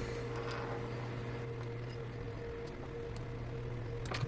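Faint handling ticks from a precision screwdriver and tiny phone screws, with a short cluster of sharper clicks about four seconds in, over a steady low electrical hum.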